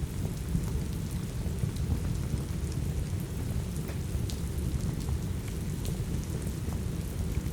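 Steady rain with a deep, even low rumble, and scattered small sharp crackles from a wood fire in a fireplace.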